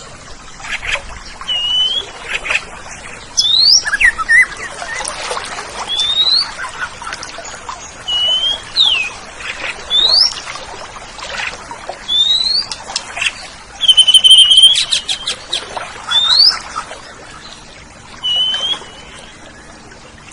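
Oriental magpie-robin (kacer) singing: clear whistled notes, many of them quick upward or downward slides, given one every second or so, with a fast chattering run of notes about fourteen seconds in.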